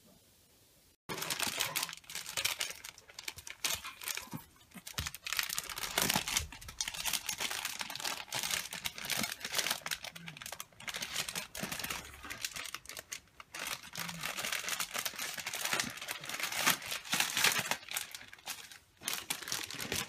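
Thin plastic bag crinkling and rustling in uneven surges as a Shih Tzu puppy drags it across a wooden floor. It starts suddenly about a second in.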